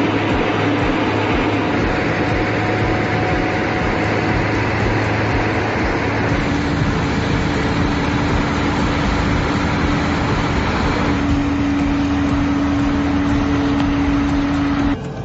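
Heavy diesel engines of the transport rig running steadily under load, a dense rumble with a steady low drone; the sound changes abruptly near the end.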